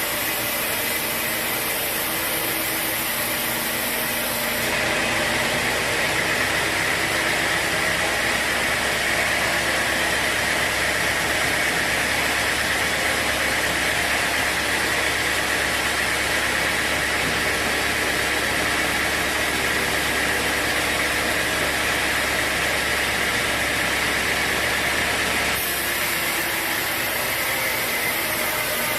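Sawmill saw running steadily. From about five seconds in until a few seconds before the end, the sound grows louder and fuller with a rising hiss, as the blade works through a mahogany log under load.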